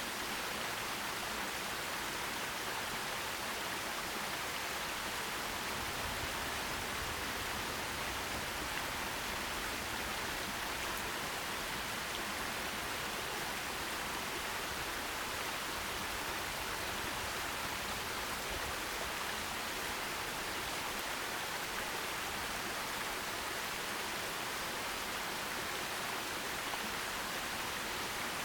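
Forest stream flowing, an even, steady rush of water with no single splash standing out.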